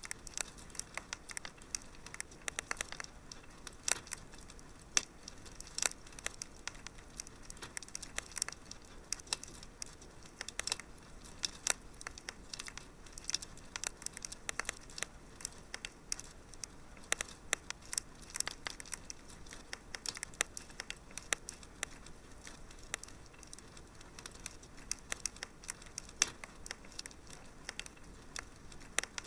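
Wood fire crackling: many irregular sharp pops and snaps over a faint steady hiss.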